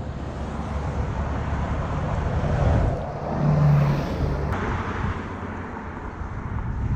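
Wind and road noise from riding, rising and falling, with a brief low steady hum about halfway through.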